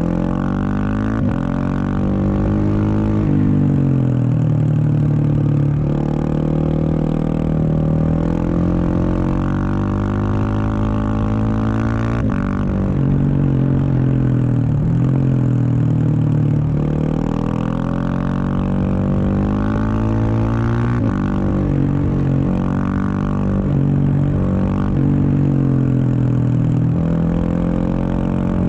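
Husqvarna 701 Supermoto's single-cylinder engine through an aftermarket Wings exhaust, under way with engine speed rising and falling again and again as it accelerates and backs off.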